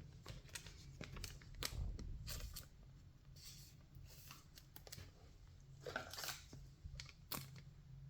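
Baseball trading cards being handled and flipped through by hand: soft scattered slides, rustles and light clicks of card stock, over a faint steady low hum.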